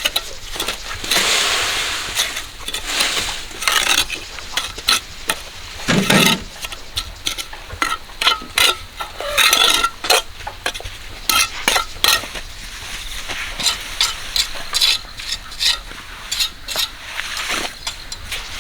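Metal hand tool scraping and clinking through wet concrete in quick, irregular strokes.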